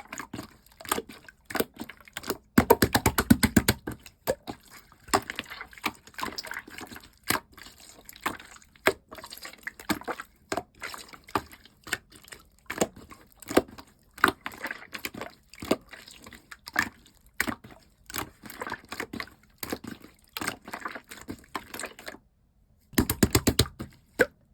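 Slime being squished and pressed by hand, giving many sharp, wet clicks and pops at irregular spacing. Dense runs of rapid popping come about three seconds in and again near the end.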